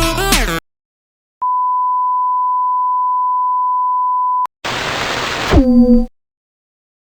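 A steady electronic beep on one unwavering pitch, about three seconds long, like a test tone. Before it, music cuts off abruptly. After it comes a short burst of noisy sound whose tones drop in pitch before it stops suddenly.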